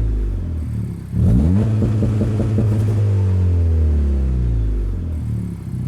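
Acura Integra's 1.5-litre turbocharged four-cylinder through an Invidia N1 cat-back exhaust, free-revving. The revs are falling at first, a quick blip about a second in, then the revs fall slowly back to a steady idle near the end.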